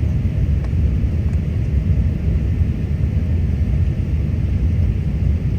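Steady low rumble of an Airbus A380 airliner heard from inside the passenger cabin: engine and airflow noise, even in level throughout.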